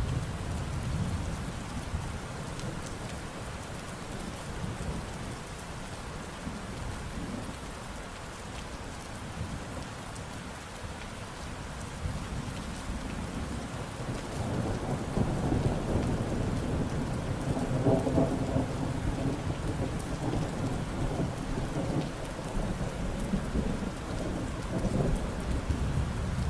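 Steady rain pattering, with low rolling thunder that rumbles at the start, swells again from about halfway through, and is loudest around two-thirds of the way in.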